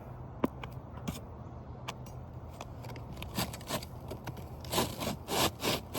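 Scraping on an asphalt shingle as the damaged shingle is worked loose: a few small sharp clicks, then a run of repeated gritty scraping strokes that get louder in the second half.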